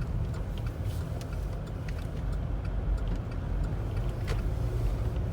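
Steady low rumble of a moving car heard from inside, with a few faint clicks.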